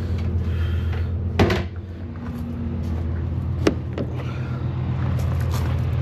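Two sharp knocks a couple of seconds apart, from the plastic doors of portable toilets banging shut. A steady low engine hum runs underneath.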